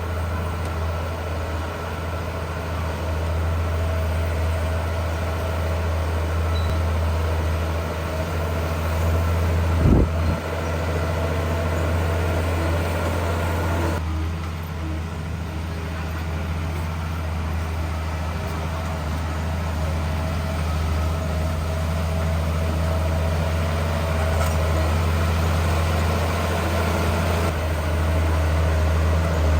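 Heavy diesel engine of earthmoving machinery running steadily with a deep, low hum, with a single sharp thump about ten seconds in.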